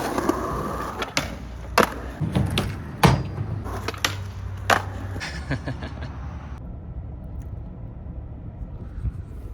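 Skateboard rolling, a steady low rumble of the wheels, with about five sharp clacks of the board in the first five seconds; the rolling fades out a little past halfway.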